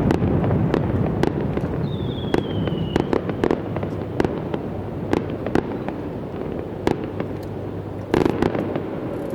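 Aerial fireworks bursting: a continuous rumble of booms with many sharp cracks scattered through it, slowly fading. A brief falling whistle comes about two seconds in, and a louder burst comes near the end.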